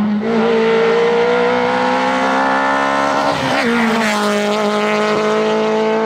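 Hillclimb race car's engine running at full throttle up the course, its note climbing slowly, then briefly breaking about three and a half seconds in as it shifts gear before holding steady again.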